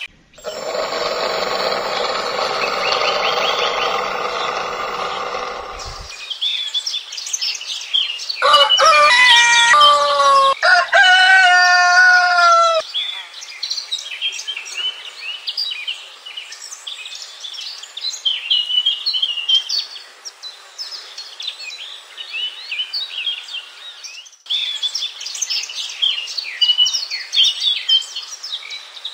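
A rooster crows twice in a row, each crow about two seconds long and dropping in pitch at the end, with small birds chirping throughout. A steady hum fills the first six seconds.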